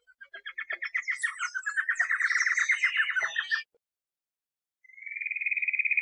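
A songbird singing: a fast run of repeated chattering notes for about three seconds, then after a pause a short buzzy trill near the end.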